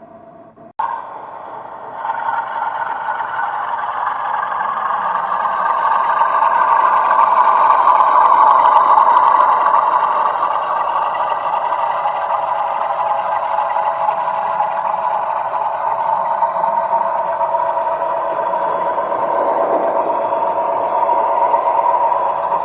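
Sound-fitted 00 gauge model diesel locomotive running: engine sound from its small onboard speaker, building up over the first few seconds and then holding steady.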